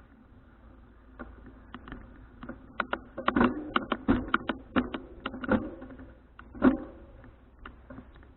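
Moktak, the Buddhist wooden fish block, struck in a quick run of hollow wooden knocks, loudest from about three to seven seconds in.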